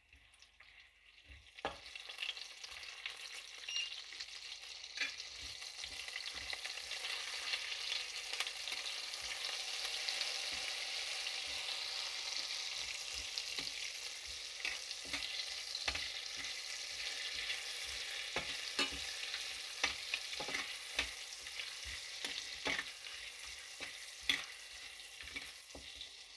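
Food sizzling in hot olive oil in a pan as it is stirred, with frequent knocks and scrapes of the spoon against the pan. The sizzle starts about a second and a half in, grows louder and then holds steady.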